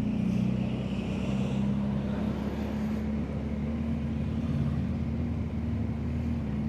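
BMW R1250GS Adventure's boxer-twin engine running steadily under way, a steady engine hum over road and wind noise.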